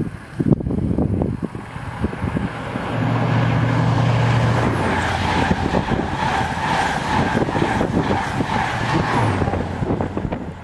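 An InterCity 125 (HST) passing through at speed. The leading Class 43 power car's diesel engine hums past a few seconds in, followed by the loud rush and ringing of the coaches' wheels on the rails. A second engine hum near the end comes from the rear power car going by.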